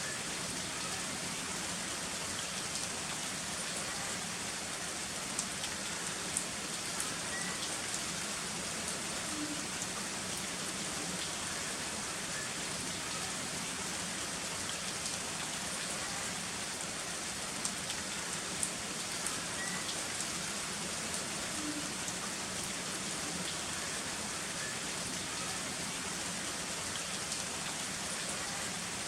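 Heavy rain falling steadily, an even hiss of rain with scattered sharper drop ticks.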